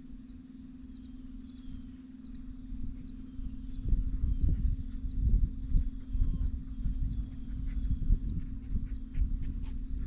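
Crickets chirping in an evening insect chorus: a steady high drone with evenly repeated paired chirps over it. From about four seconds in, louder low thumps and rustling come in over the chorus.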